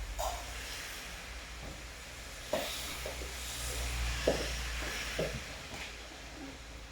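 Steady rain with scattered louder drips landing close by, over a low steady rumble.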